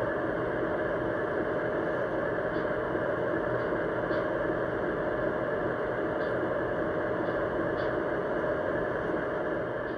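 Lionel Legacy ES4400AC O-scale model diesel locomotive running on three-rail track: a steady hum and rumble from its onboard diesel sound system and wheels, with a few faint clicks.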